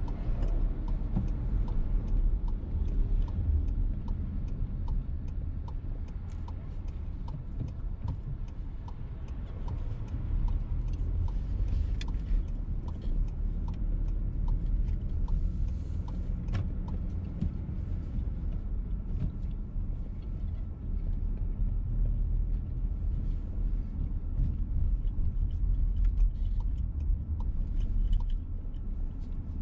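Steady road and engine rumble inside the cabin of a VW T-Roc on the move. The turn-signal indicator ticks evenly, about three clicks every two seconds, for the first third and again through much of the later part.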